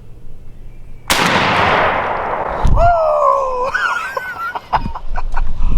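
A shotgun fires once about a second in, and its report fades over a second or so. A loud pitched cry follows, sliding down then up, then scattered thumps and rustles.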